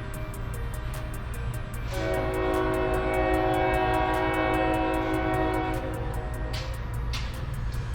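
A horn sounding one held chord of several tones for about four seconds, starting about two seconds in, over a steady low rumble.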